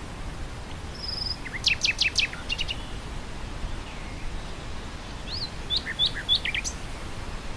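Nightingale singing two short phrases of sharp, quickly repeated notes, the first opening with a brief high trill, over a steady wind through grass.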